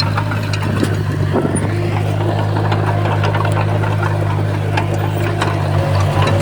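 Bulldozer's diesel engine running steadily under load, with scattered clanks and knocks from the tracks and the stones being pushed.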